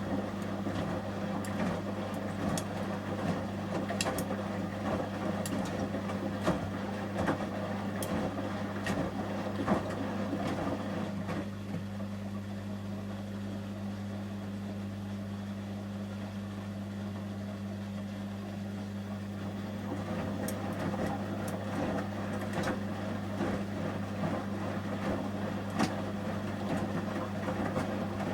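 Samsung front-loading washing machine in the heating stage of a 30 °C shirts wash: a steady low hum under the swish of the wet load, with scattered light clicks. The tumbling eases off for several seconds midway, then picks up again.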